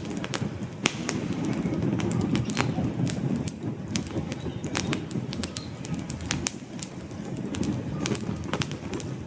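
Wood logs burning in a fireplace: sharp, irregular crackles and pops over a steady low rumble of the flames.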